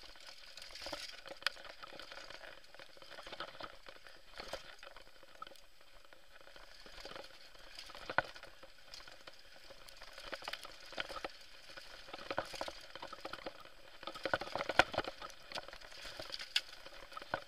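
Mountain bike descending a rough trail: a steady crackle of tyres over loose dirt and stones, broken by scattered sharp knocks and rattles from the bike, the loudest about halfway through and again near the end.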